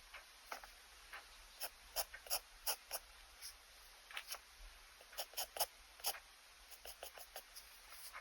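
Pen nib scratching on sketchbook paper in short, quick strokes, about twenty of them at an irregular pace, faint.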